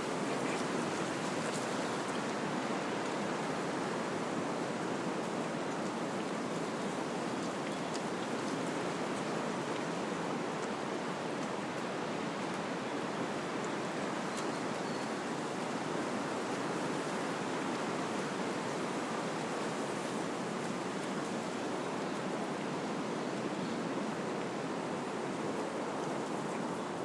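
Wind blowing through trees, a steady rushing of leaves and branches with a few faint ticks.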